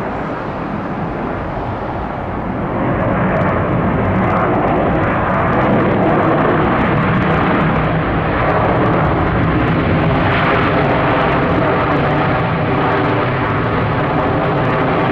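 Boeing 787-9 airliner's twin jet engines on its landing roll after touchdown, a loud roar that swells about three seconds in and then holds steady with a hum of pitched engine tones.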